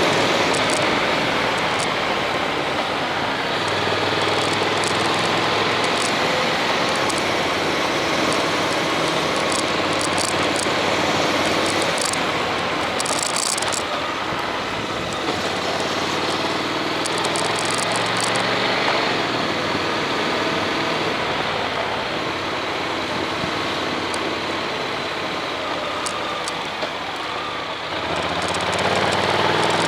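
Honda X-ADV's parallel-twin engine running under way, mixed with wind and road noise on the camera mic. The engine pitch rises and falls with speed and climbs near the end.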